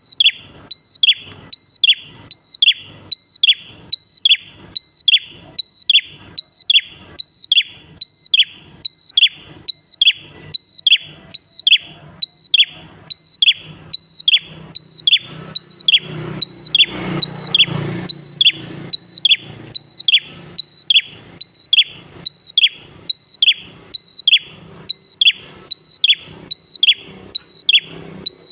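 A prenjak klawu songbird calling over and over in an even, fast series, about three calls every two seconds, each a high whistled note held briefly then dropping sharply in pitch. A low rumble sounds briefly about two-thirds of the way through.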